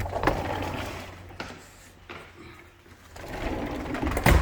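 A sliding glass door rolling along its track with a rattling rumble in two stretches, ending in a sharp knock as it comes to a stop near the end.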